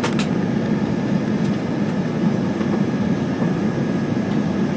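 Steady low rumble of an Airbus A320's engines and airflow, heard from inside the passenger cabin in flight.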